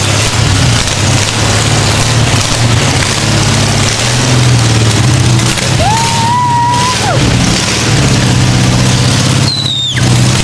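Porsche 914's air-cooled engine running loud and steady, freshly brought back to life after standing 15 years. Two brief whistling tones cut through, about six and nine and a half seconds in.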